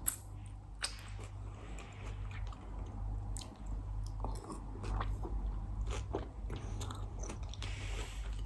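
Close-miked chewing and biting of salad, with scattered short wet mouth clicks and snaps.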